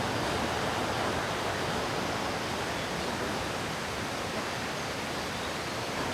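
River water flowing steadily: an even, unbroken rush.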